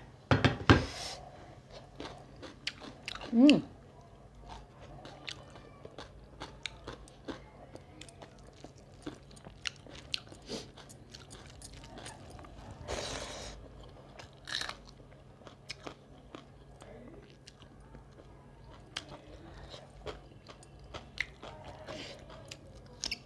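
Close-up eating sounds of someone chewing a meal of rice, fish curry and potato pickle, eaten by hand: many small wet mouth clicks and chewing sounds, with a few louder bursts near the start and about halfway through.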